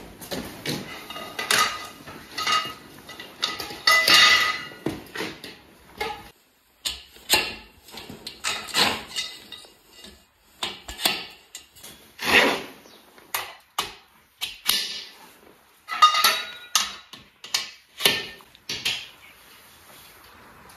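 Irregular knocks and clatters of railing parts being handled and fitted together during assembly, some with a short ring.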